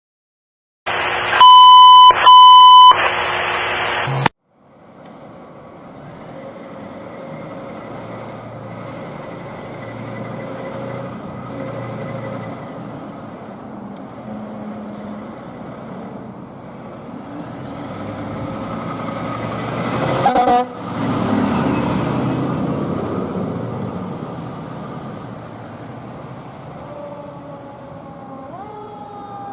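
Fire department ladder truck sounding two loud blasts of its horn about a second in, cut off abruptly. The truck's engine and road noise follow, swelling as it passes about twenty seconds in.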